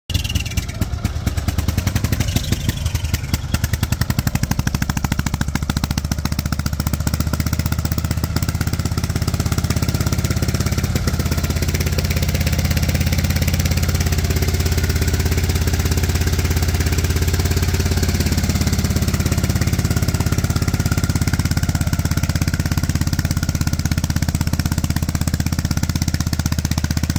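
1955 Harley-Davidson FL Panhead's 74 cubic inch V-twin idling, freshly running again after about 20 years of sitting. The idle is a little uneven for the first several seconds, then settles into a steady beat.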